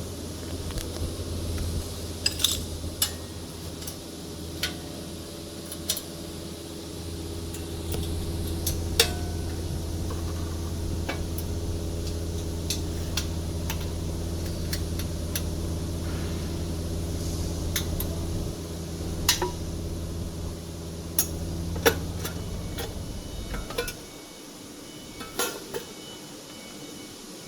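Scattered metallic clinks and knocks of tools and machine parts being handled, over a steady low machine hum that stops near the end.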